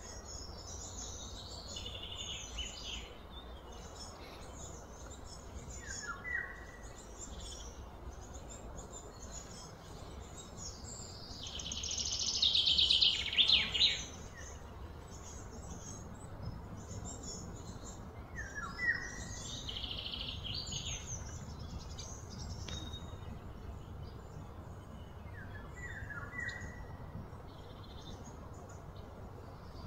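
Birds chirping and calling, with a short falling call that comes back every several seconds. A louder, high buzzing trill rises about twelve seconds in and stops abruptly about two seconds later. A steady low rumble runs underneath.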